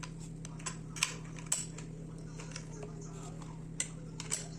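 Scattered light metallic clicks and clinks of hand tools and loose metal parts being handled while a ceiling fan is taken apart, over a steady low hum.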